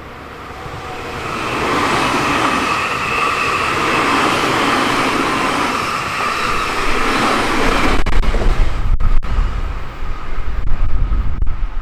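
Nankai Main Line electric express train approaching and passing at speed: a rising rush of wheel-on-rail noise with a steady whine. From about eight seconds in, it turns into a heavy, uneven low rumble and buffeting as the train goes by.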